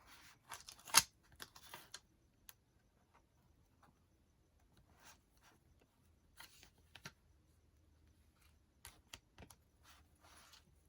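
Light clicks, taps and short paper rustles from small paper stickers being worked off a sticker mat, with one sharper click about a second in.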